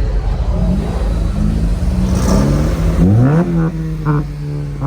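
Car engine revving several times, its pitch climbing and dropping, loudest about three seconds in.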